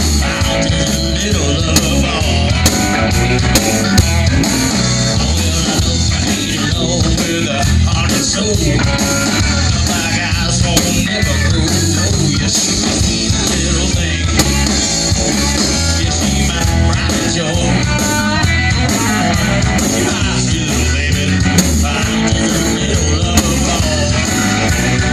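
A band playing rock music live, with guitar over a pulsing bass and a steady drum beat.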